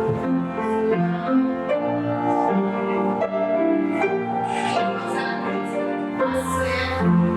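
Piano music playing a tune of held notes and chords, changing every half second or so.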